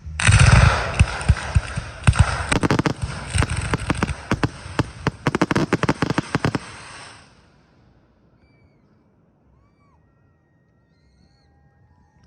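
Fireworks going off in a rapid barrage of booms and crackling bursts that stops about seven seconds in.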